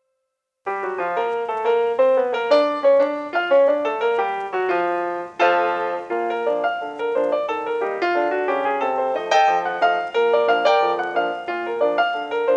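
Piano music: a flowing run of notes that begins about half a second in, after a short silence.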